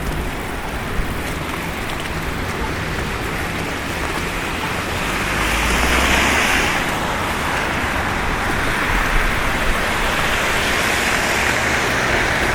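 City street traffic on a snow-covered road: a steady hiss of tyres through wet snow and slush, with one vehicle swelling louder as it passes about halfway through.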